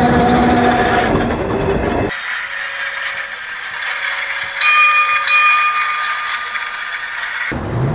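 Recorded sounds of trains running on rails: a heavy rumble with a steady low tone cuts off suddenly about two seconds in. A thinner, higher rail sound follows, with a high steady whine in two stretches in the middle. The heavy rumble comes back suddenly near the end.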